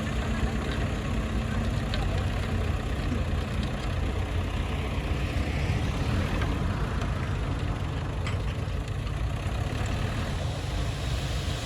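Bulldozer's diesel engine running with a steady low rumble.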